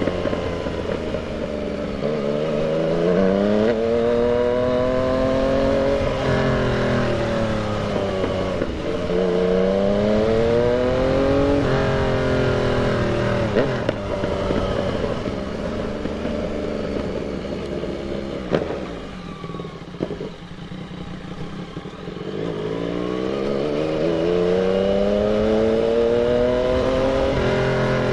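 Yamaha MT-09's inline three-cylinder engine accelerating through the gears: the revs climb, drop at each shift and climb again. A little past the middle it eases off to a lower, quieter run with a couple of short clicks, then pulls up through the revs again near the end.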